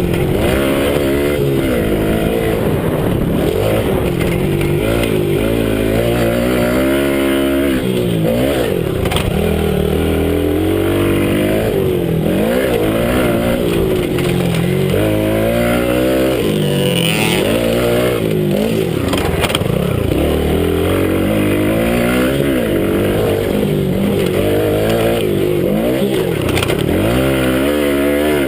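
Minibike engine heard from onboard, revving up and dropping back again and again as the rider throttles on and off around a motocross track.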